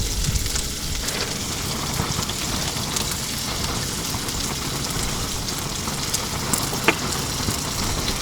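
Salmon frying in a pan on a propane camp stove: a steady crackling sizzle with a low rumble underneath. There are a couple of sharp clicks near the end.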